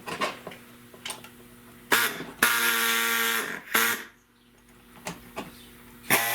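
Light scraping and ticking of a razor blade on a plastic taillight lens, then a small power tool running in two short spells that start and stop abruptly: one about two and a half seconds in, lasting about a second, and another near the end.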